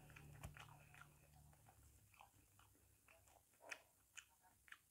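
Very faint chewing of ripe jackfruit flesh, with a few soft wet clicks in the last second and a half.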